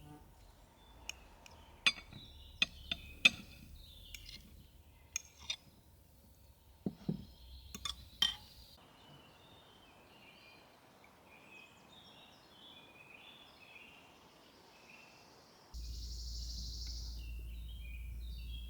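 About a dozen sharp clinks and knocks over the first eight seconds or so, then small birds chirping, with a low hum joining near the end.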